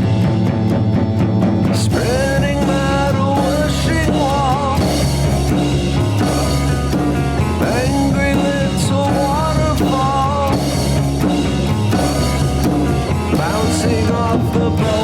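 Psychedelic rock song: a full band with drum kit playing at a steady level, and a wavering melodic lead line coming in about two seconds in.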